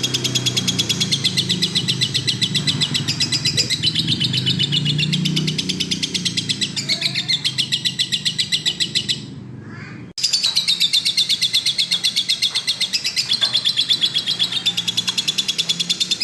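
Lovebird chattering in a long, fast run of shrill chirps. It breaks off about nine seconds in and starts again abruptly about a second later.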